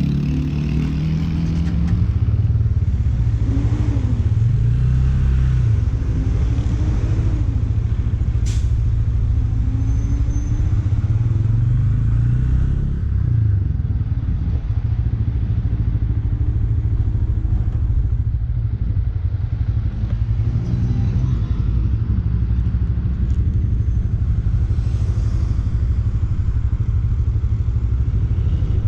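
Bajaj Pulsar N160's single-cylinder engine running steadily under way, its pitch rising and falling a couple of times as the rider changes speed.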